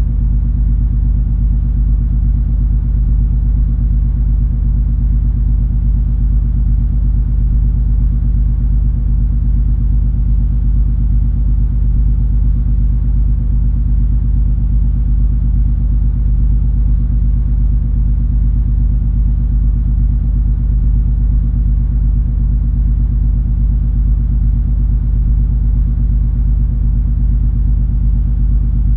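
Cruise ferry MS Color Fantasy under way: a steady, deep rumble from the ship's engines and propulsion, with a few constant low hum tones in it and no change in level.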